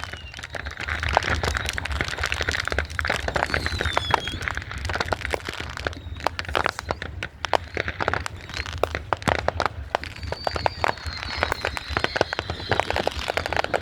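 Consumer fireworks and firecrackers going off in a dense, unbroken run of sharp cracks and crackles. Whistling fireworks glide in pitch over it: a falling whistle about three to four seconds in and a long high whistle from about ten seconds on. A steady low hum sits underneath.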